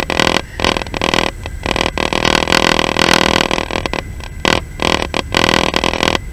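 Moving passenger train heard at the window: a steady low rumble under loud, uneven running noise that keeps cutting in and out.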